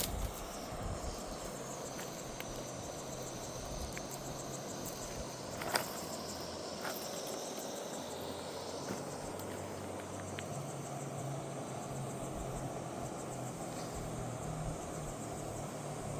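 Insects chirping as a faint high steady trill over a steady rushing background, with a low steady hum and a single sharp click about six seconds in.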